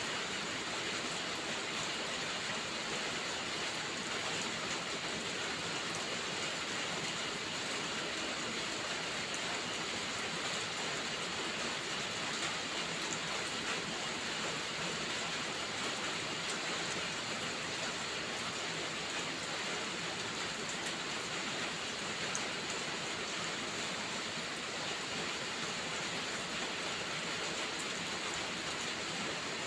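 Heavy rain falling in a steady, dense hiss, with faint small ticks scattered through it.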